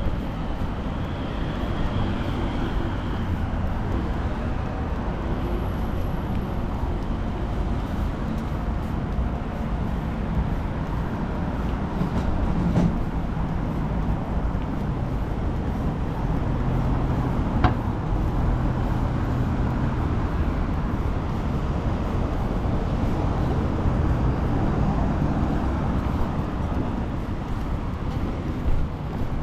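Steady city road traffic noise: passing motor vehicles, with a single sharp click about two-thirds of the way through.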